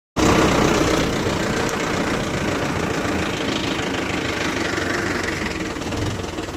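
Mahindra 475 SP tractor's diesel engine running steadily.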